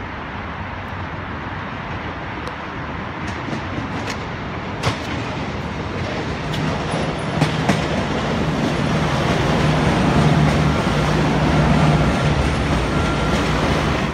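V/Line VLocity diesel multiple unit passing close by. Its diesel engine's steady low note comes in about halfway through, over a rumble that grows louder as the train nears. A few sharp clicks come from the wheels on the track. The sound cuts off suddenly at the end.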